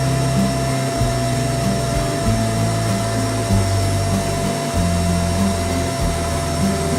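A workshop vacuum cleaner's motor running steadily, with a constant whine and rushing hiss, under background music with a bass line that steps from note to note.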